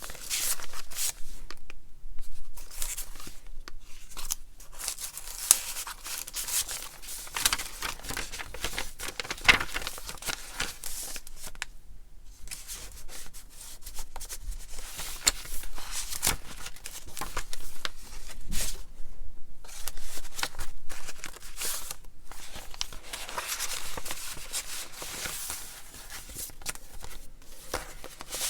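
Paper pages, tags and cards of a handmade junk journal being handled and turned, rustling and crinkling in irregular bursts with occasional sharp clicks.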